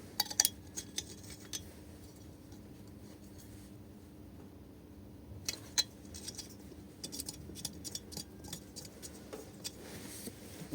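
Light, scattered metallic clicks and clinks of small engine parts and hand tools being handled during valve-train assembly on a small single-cylinder engine, with a short run of quick clicks later on.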